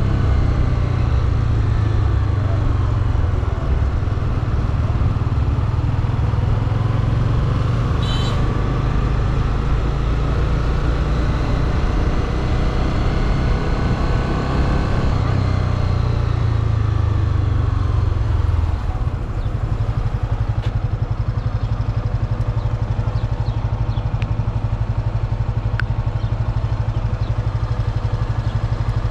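Motorcycle engine running while riding, its pitch rising and falling with speed. About two-thirds of the way through it drops to a steady idle.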